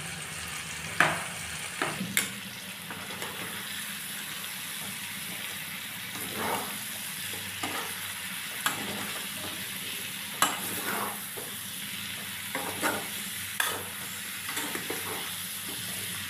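Pork and sliced bamboo shoots sizzling in oil in a wok, stirred with a spatula that scrapes and knocks against the pan at irregular intervals over a steady hiss.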